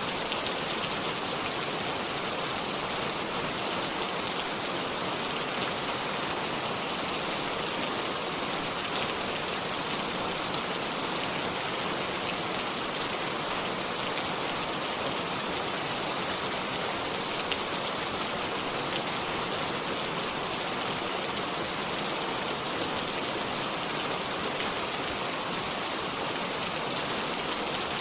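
Steady rain falling, with a dense patter of small drop impacts on surfaces. It neither builds nor dies away.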